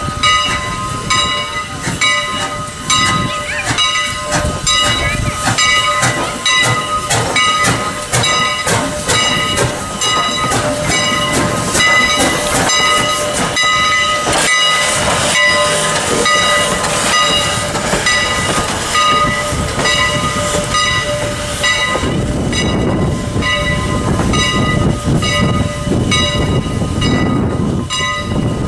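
Steam train running on the track, its wheels clicking over rail joints in a steady, even rhythm of about two to three clicks a second, with steady high ringing tones over it. About 22 seconds in, the clicking fades and a low rumble takes over.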